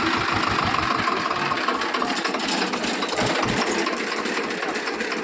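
Swaraj 724 tractor's two-cylinder diesel engine running steadily, with a fast low pulsing that weakens about two seconds in.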